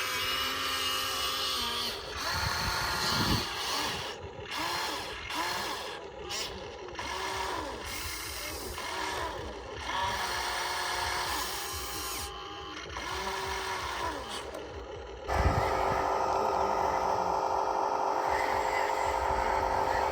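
Small electric motors of RC construction models whining in short runs, each rising in pitch, holding and falling away as a motor starts and stops, with clicks between. About fifteen seconds in, a sudden louder, steady buzzing hiss takes over.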